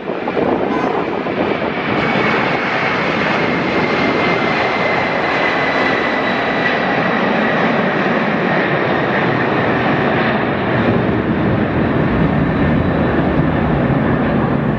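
UPS McDonnell Douglas MD-11 tri-jet's engines running loudly, a steady roar with a high whine that slowly falls in pitch.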